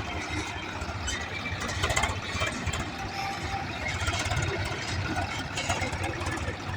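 Diesel engine running steadily with a low, even throb.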